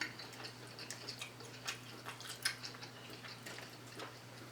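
Quiet eating: faint, irregular little mouth clicks and smacks from chewing, over a steady low hum.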